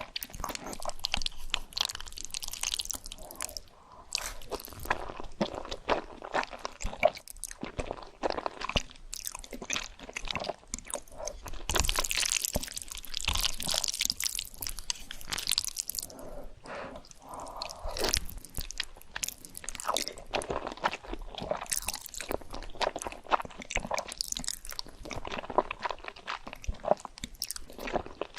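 Close-miked eating: a person biting into and chewing crunchy food, with many crisp crunches one after another.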